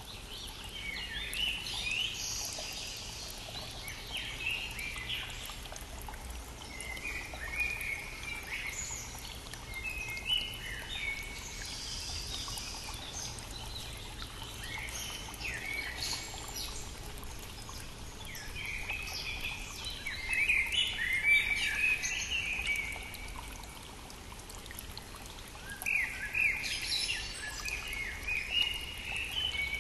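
Several songbirds singing spring song in short repeated phrases, overlapping most densely about two-thirds of the way through and again near the end, over the steady rush of a brook.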